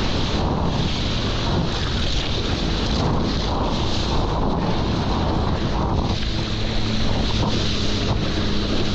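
Wind buffeting the microphone and water rushing while surfing a jet ski's wake, with the jet ski's engine droning underneath as a steady low hum that grows clearer about six seconds in.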